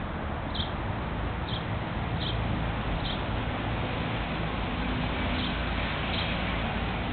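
A small bird chirping outdoors, one short high chirp repeated roughly every second with a pause in the middle, over a steady background hiss.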